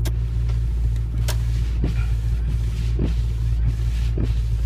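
2001 Subaru Forester's flat-four engine idling steadily just after a cold start in 7 °F weather, with a rattle and a few sharp clicks over the low hum.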